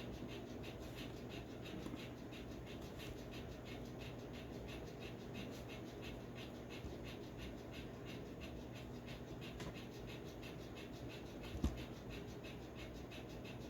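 Faint rhythmic chirping or clicking, about four to five short pulses a second, over a low steady hum; this is the recording passed around as sounds of creatures imprisoned beneath the Euphrates River. A single sharp click comes near the end.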